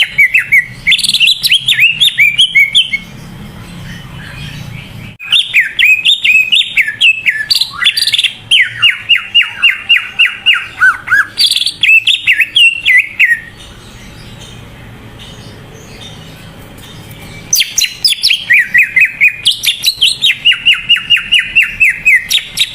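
Cucak ijo (green leafbird) singing in three loud bursts with pauses between. Each burst mixes quick downward-sweeping notes with a run of fast repeated notes, about five a second.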